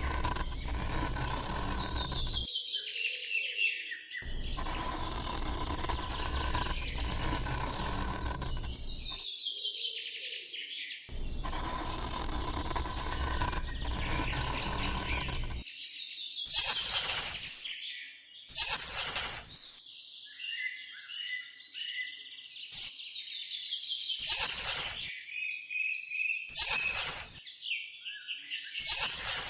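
Small birds chirping repeatedly. Three long stretches of steady noise start and stop in the first half, and several short bursts of noise follow in the second half.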